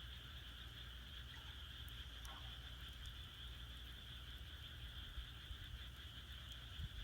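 A steady chorus of frogs calling, with a few faint crackles from burning firewood.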